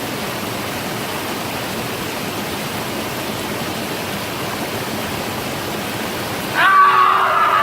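Steady rushing noise with no beat or pattern. About six and a half seconds in, a louder, drawn-out high-pitched sound made of several stacked tones cuts in over it.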